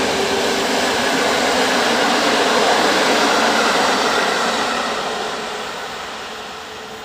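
A passenger train's coaches rolling past on the rails in a steady rush of wheel noise, which dies away over the last couple of seconds as the train recedes.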